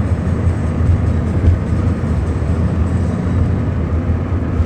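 Lada Kalina 2 wagon driving: a steady drone of engine and road noise with a strong low hum.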